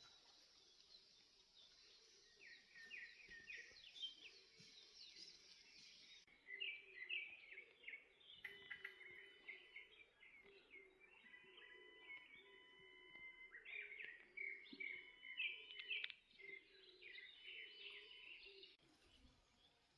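Faint birdsong: birds calling with quick runs of repeated chirps and short whistled notes, thickest from about six seconds in and stopping shortly before the end.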